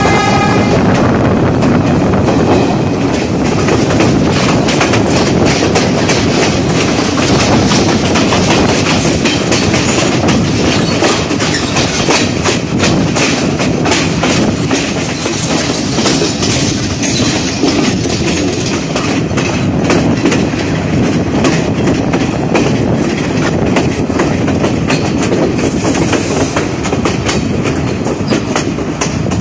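Passenger train heard from an open window of one of its carriages while moving: steady running noise and wind rush, with the wheels clattering rapidly over the rail joints.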